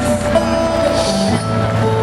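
Live rock band playing: held notes over a bass line changing every half second or so.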